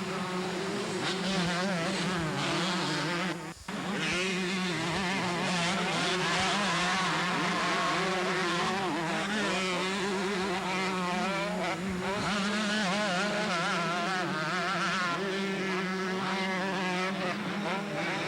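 Several two-stroke motocross bikes racing, their engines revving up and down as they work around the track. The sound drops out briefly, all at once, about three and a half seconds in.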